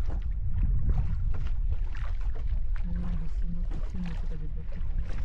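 A boat under way on the water: a steady low rumble with scattered small splashes or knocks.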